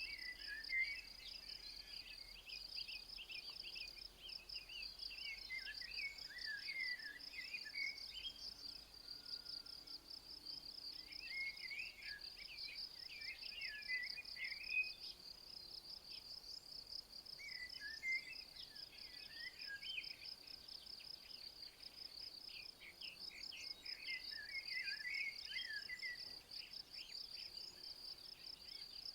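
Crickets chirring in a steady, fast-pulsing high trill, with short bursts of bird song breaking in every five or six seconds.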